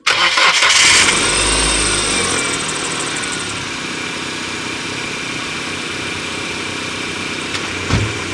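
Dodge Neon 2.0-litre 16-valve four-cylinder engine starting at once on its first try after new spark plugs, plug wires and coil pack. The revs flare for a second or two, then it settles into a steady idle. There is a short thump near the end.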